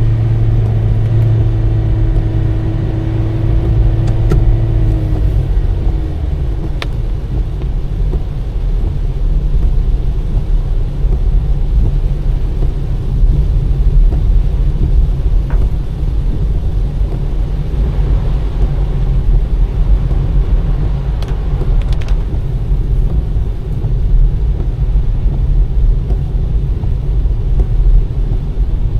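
Car driving on a rain-wet road: a steady, loud low rumble of tyres and engine, with a steady engine hum that fades out about five seconds in. A few faint ticks sound here and there.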